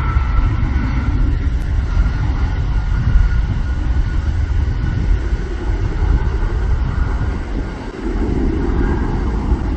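Jet airliner engines close by: a loud low rumble with a steady whine above it, dipping briefly about eight seconds in.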